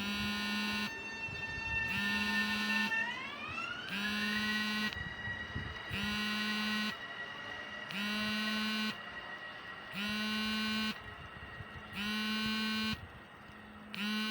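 A buzzer-like tone sounding once every two seconds, each about a second long, over an electric train's high whine that rises in pitch a few seconds in and then holds steady as the train pulls away.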